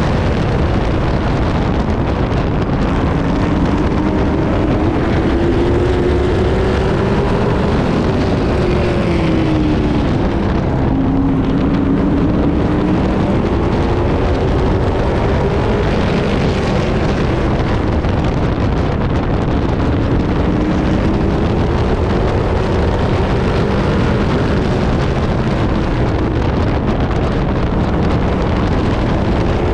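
Pro truck race truck's engine heard from on board, running hard at racing speed. Its pitch dips and climbs again several times as the throttle is lifted and reapplied, the deepest dip about ten seconds in.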